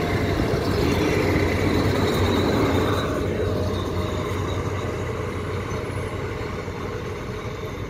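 A yellow railway maintenance train passes close by and moves away. Its steady rumble on the rails is loudest for the first few seconds and then slowly fades.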